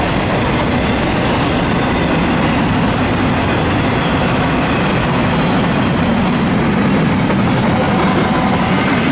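Double-stack intermodal freight train's well cars rolling past: a steady rumble of steel wheels on rail.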